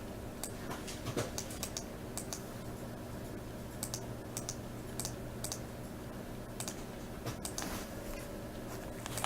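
Computer keyboard being typed on: irregular short runs of key clicks, over a steady low hum.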